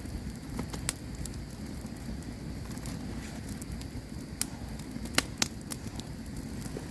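Campfire burning and crackling, with irregular sharp pops over a steady low rumble of flame; the loudest pops come about a second in and two close together near five seconds.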